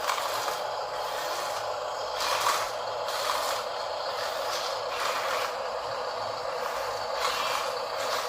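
Small electric motor and plastic gearbox of a Huina RC dump truck running steadily, with frequent short louder rasps.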